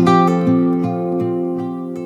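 Background music: an acoustic guitar chord strummed and left ringing, slowly fading.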